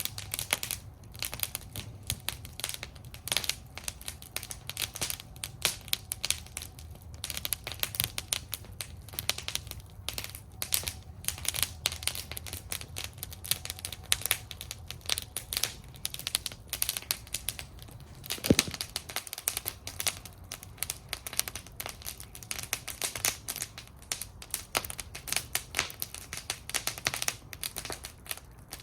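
Wood fire burning in a fire bowl, crackling with dense, irregular pops and snaps over a low steady rumble. One pop about two-thirds of the way through is louder than the rest.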